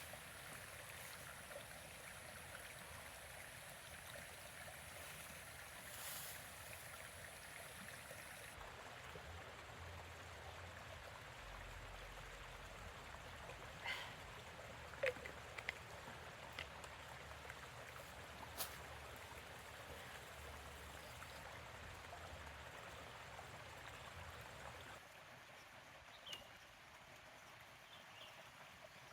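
Steady rain, a soft even hiss. A few sharp clicks or ticks come in the middle, and it drops a little quieter near the end.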